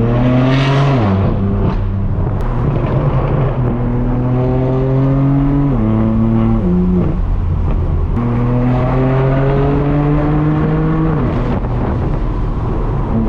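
Straight-piped BMW M4 F82's twin-turbo straight-six exhaust under gentle acceleration: the pitch climbs slowly through each gear, then drops sharply at the shift, three times. A few short sharp cracks from the exhaust.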